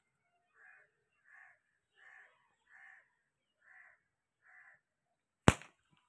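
A bird calling six times in a steady series of short harsh calls, then a single sharp crack near the end, the loudest sound.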